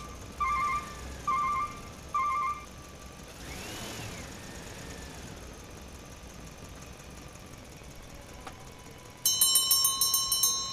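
Electronic sound effects: three short warbling beeps about a second apart, a faint rising-then-falling sweep, then a loud, rapidly repeated bell-like ringing near the end.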